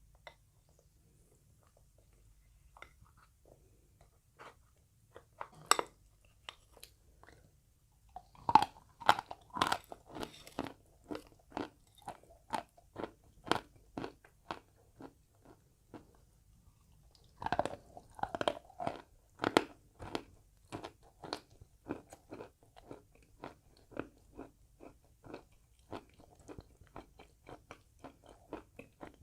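Chalk with paste being bitten and chewed with crisp crunches close to the microphone. A few louder bites come about 6, 9 and 18 seconds in, each followed by steady crunching chews about two a second.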